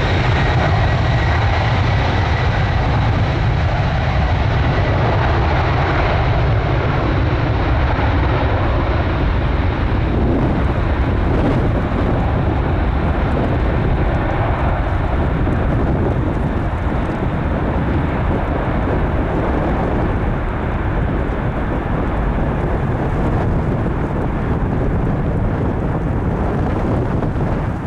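Boeing 767-300F freighter's twin turbofan engines at take-off power: a loud, steady roar with a heavy low rumble. A high engine whine fades out in the first couple of seconds.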